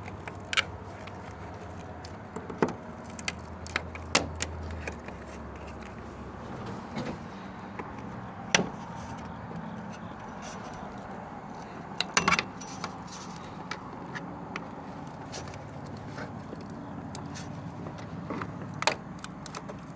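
Scattered sharp metal clicks and clinks, a dozen or so at uneven intervals, as car trim is pried off and its small rusted metal clips pop loose.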